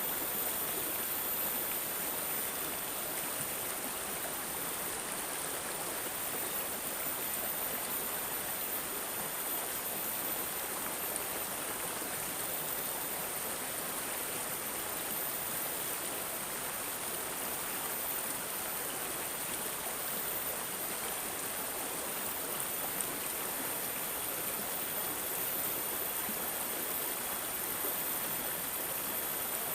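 Water babbling and gurgling steadily in a stream, a continuous even rush with no pauses.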